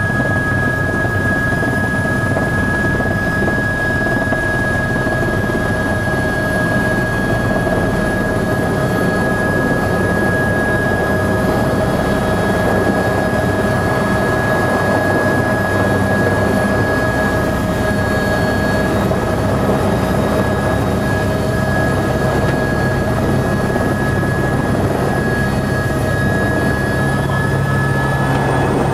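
Helicopter heard from inside the cabin on a passenger ride: loud, steady rotor and engine noise with a constant whine, which falls slightly in pitch near the end.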